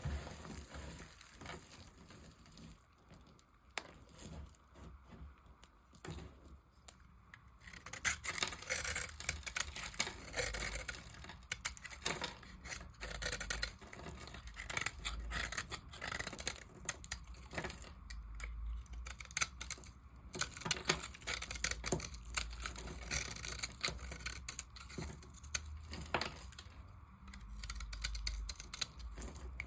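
A knife cutting into dry, brittle soap, giving a dense run of crisp crackling and scraping. It is sparse and quiet for the first several seconds, then thicker and louder.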